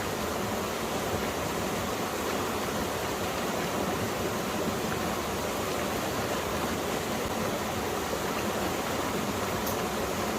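Valley stream flowing, a steady unbroken rush of water.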